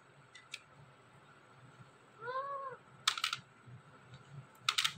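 Ringneck parrot giving a single soft, meow-like call that rises and falls about two seconds in, then two quick bursts of sharp, high clicking chirps, one around three seconds in and one near the end.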